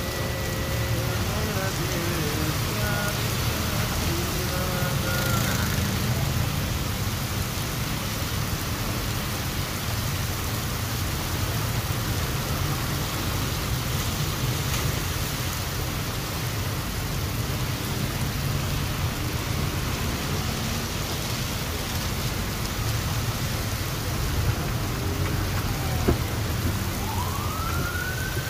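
Heavy monsoon rain falling steadily, with the low rumble of passing traffic underneath. Near the end a siren wail rises and then falls once.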